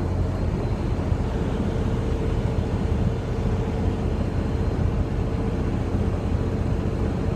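Steady drone of a Freightliner semi-truck's diesel engine and road noise heard inside the cab while driving, a low even hum with a faint steady whine above it.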